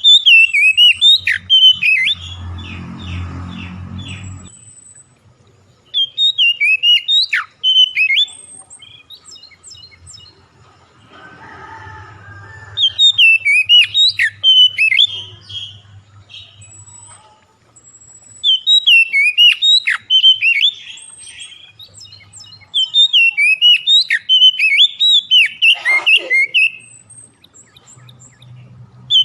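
A songbird singing in repeated bursts of rapid, varied chirps and whistles, each phrase lasting two to four seconds with short pauses between. This is bird-lure song of the kind played to set caged songbirds singing.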